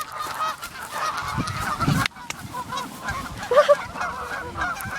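A flock of geese honking, many short calls overlapping continuously, with some low rumbling underneath.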